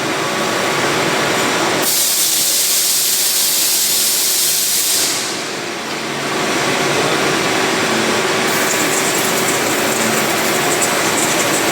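CNC bridge milling machine running with a steady, loud mechanical noise. About two seconds in, a strong hiss sets in over it for roughly three seconds, then fades back to the machine's running noise.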